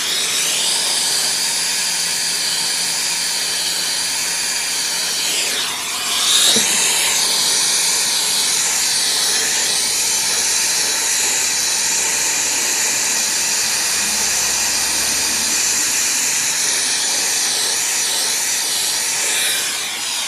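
Brazing torch flame hissing steadily as a refrigerant line joint is brazed on a compressor being installed, with a brief change in the hiss about six seconds in.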